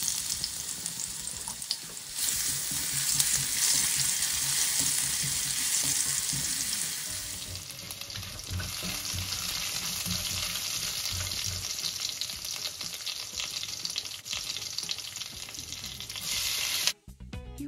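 Garlic and whole spices sizzling hard in hot oil in a stainless steel pan, with a slotted spoon stirring and knocking against the pan. The sizzle cuts off suddenly near the end.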